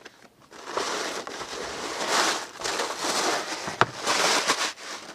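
Packaging being handled, rustling and crinkling, with a sharp knock a little before four seconds in.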